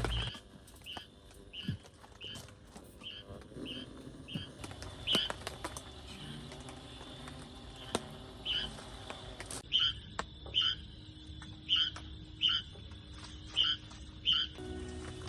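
An animal calling in a steady series of short, high chirps, about two a second, fewer in the middle stretch, with faint scattered ticks behind.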